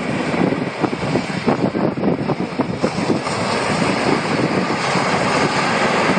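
Wind buffeting the microphone in irregular gusts, over the steady wash of ocean surf.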